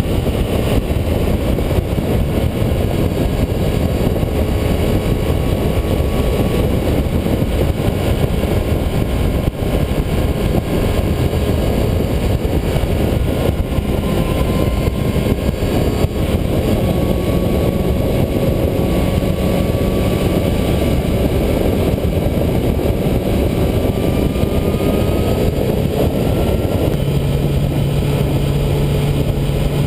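Yamaha YZF R6 inline-four engine heard from an onboard camera while cruising, with heavy wind rush on the microphone. The engine note drifts gently up and down with the throttle and settles into a steady low note near the end.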